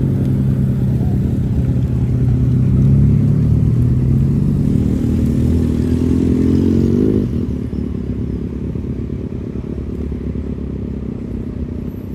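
A car engine running close by with a low, steady note; its pitch climbs gradually, then drops off abruptly about seven seconds in, leaving a lower rumble.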